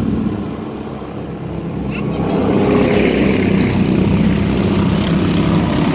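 Engines of a pack of junior mini trucks racing around the oval in a steady drone. It fades a little about a second in, then swells again as the trucks come closer.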